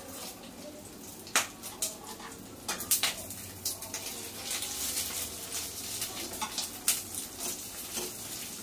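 Fish-roe fritters frying in hot oil in a pan: a steady sizzle broken by irregular sharp pops as bits of roe burst in the oil.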